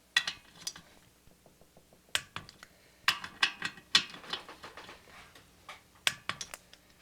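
Torque wrench ratcheting in short irregular runs of clicks while the cylinder head bolts are tightened to 180 inch-pounds in a crisscross pattern.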